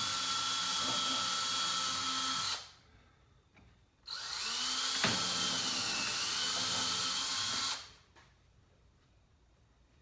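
Electric drill with a small bit boring shallow starter holes in wood, a steady whine in two runs: the first stops about two and a half seconds in, the second starts about a second and a half later and runs for nearly four seconds.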